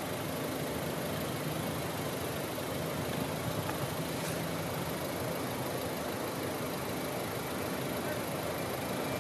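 An engine running steadily at a constant pitch, under a steady hiss of wind.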